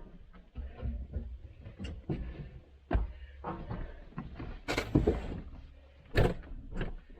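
A run of irregular clunks and knocks, the loudest about 3, 5 and 6 seconds in, over the low rumble of a tractor engine running.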